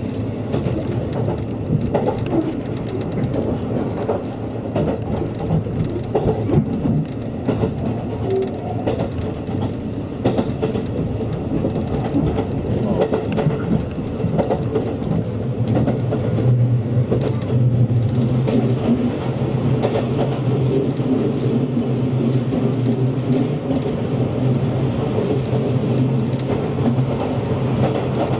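Train running along the line, heard from inside the carriage: steady running noise with wheels clicking over the rails. About halfway through, a steady low hum grows stronger.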